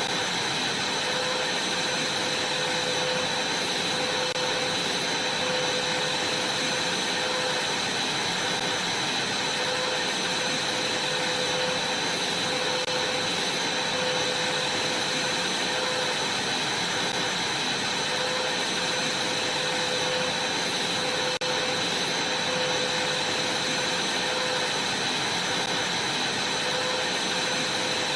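Vacuum cleaner running steadily, with a steady high whine over its noise and a lower hum that comes and goes about every second and a half.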